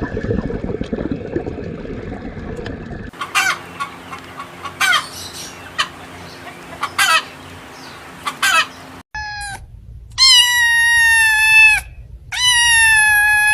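Chickens: a hen's short calls repeated about every second and a half, then a rooster crowing twice, each a long, loud crow that drops in pitch at the end. A low rumbling noise comes before them, in the first few seconds.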